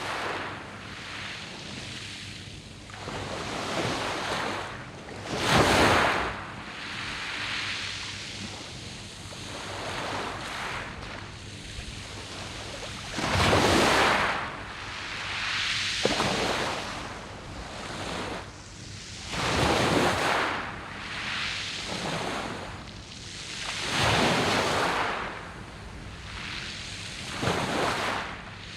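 Sea waves breaking on a round-pebble beach. The surf washes in one wave after another every few seconds, each surge swelling and falling away over a steady hiss, and the strongest surges come about 6 and 14 seconds in.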